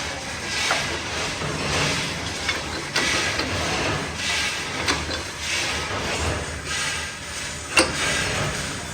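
Factory machinery working in a repeating cycle, with a noisy surge about every second and a half. Sharp metallic clicks come now and then, the loudest near the end.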